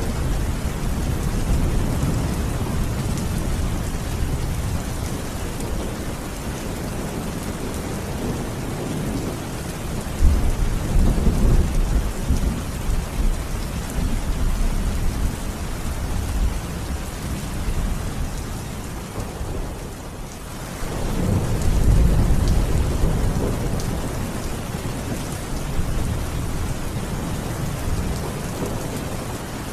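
Steady rain falling, with low rolling thunder that swells twice: about a third of the way in, and again just after the middle.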